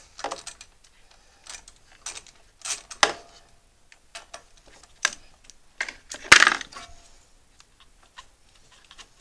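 Scattered metallic clinks and rattles of hand tools and small metal parts being handled, with one louder metal clank a little over six seconds in.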